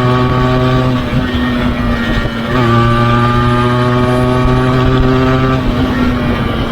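Yamaha RX 135's two-stroke single-cylinder engine running with a steady note on the move. The throttle eases about a second in, opens again at about two and a half seconds, and eases once more near the end.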